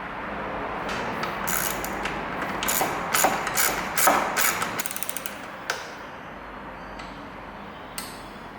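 Hand socket ratchet clicking in short runs as bolts are turned on the motorcycle, with a quick run of clicks about five seconds in and a few separate tool knocks.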